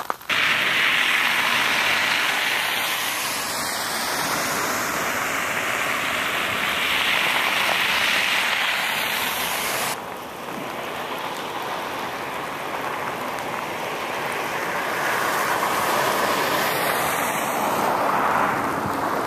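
Steady hiss of freezing rain falling on ice-glazed pavement and ground. It cuts abruptly about ten seconds in to a slightly quieter stretch, which swells again near the end.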